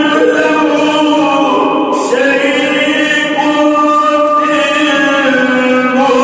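A male reciter chanting the Quran in melodic tajweed style, holding long drawn-out notes that shift to a new pitch about two seconds in and again past four seconds.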